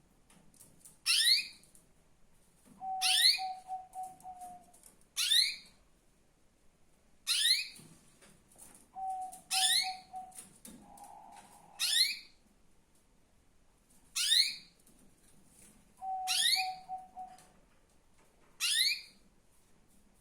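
Female canary calling: a short, sharp chirp that sweeps quickly downward, repeated about every two seconds, about nine times. Three times a lower, pulsing note follows a chirp. These are the calls of a female canary in breeding condition, used to bring males into song.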